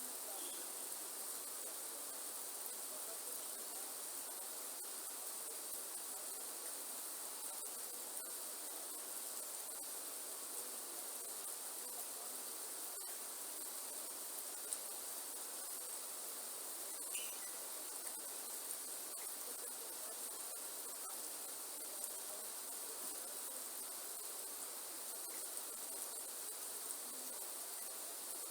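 Steady rain falling in a rainforest, with scattered ticks of individual drops, under a constant high-pitched insect chorus.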